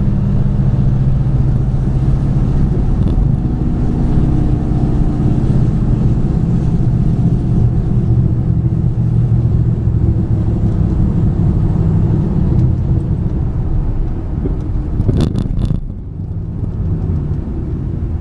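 2008 Ford Mustang GT's 4.6-litre three-valve V8 running steadily under way, heard with road noise, with no misfire after the new MSD Blaster coil-on-plug coils. A short burst of sharp clicks comes about fifteen seconds in, after which the sound gets a little quieter.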